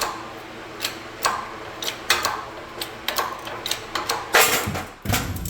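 A press forcing an old rubber bushing out of a car's rear trailing arm: a run of sharp creaks and clicks as it loads, then a sudden loud bang about four and a half seconds in as the bushing breaks free, like a shotgun going off, with a heavy thump just after.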